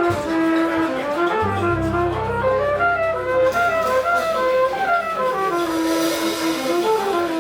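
Live jazz band playing a tune, a wind instrument carrying the melody in stepping phrases, with a low bass note held under it for a few seconds in the middle.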